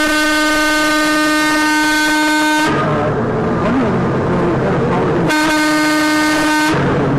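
Vehicle horn blowing two long, steady blasts of one pitch, the first cutting off sharply under three seconds in and the second lasting about a second and a half, with road noise between.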